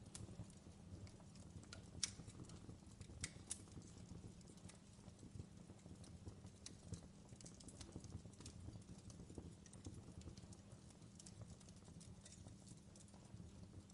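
Faint fireplace crackling: irregular small pops and snaps of a wood fire over a low steady rumble.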